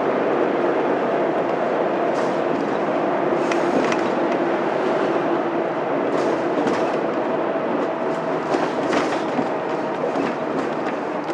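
Mitsubishi Fuso Aero Star city bus's 6M70 inline-six diesel engine running steadily with road noise, heard from inside the cabin, with light interior rattles and clicks. The sound eases slightly near the end.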